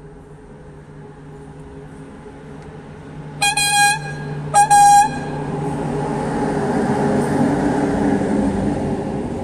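HŽ Cargo electric locomotive sounding two short, high-pitched horn blasts about three and a half and four and a half seconds in as it approaches with a freight train. The noise of the locomotive and its freight wagons running past on the rails then swells and stays loud.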